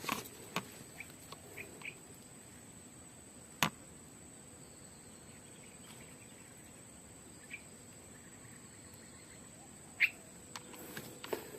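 Quiet outdoor ambience: a steady high-pitched insect drone with a few short bird chirps, broken by two sharp clicks, one about three and a half seconds in and a louder one near ten seconds.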